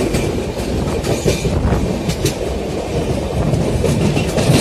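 A train running along the rails, heard from aboard: a steady low wheel-and-track rumble with a few irregular sharp clacks.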